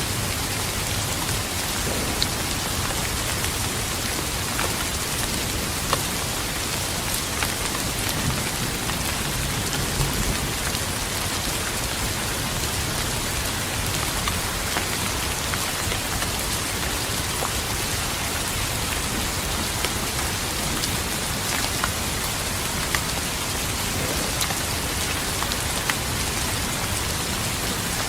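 Steady rain falling, with many scattered sharp drop hits through the steady hiss.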